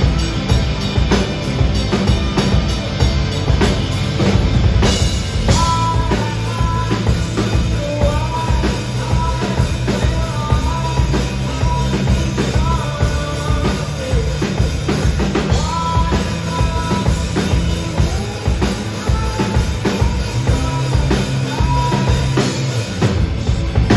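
Rock band playing live: a drum kit keeps a steady beat under full band sound, and a melody line comes in about five seconds in.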